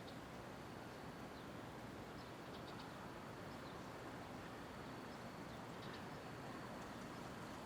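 Faint, steady city street ambience: a low, even rumble of distant traffic, with a few short, high chirps scattered through it.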